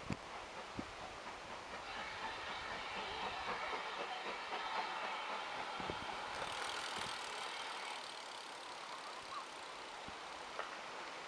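A train running past at a distance: wheel and rail noise that builds, holds for several seconds and fades, with a few faint clicks.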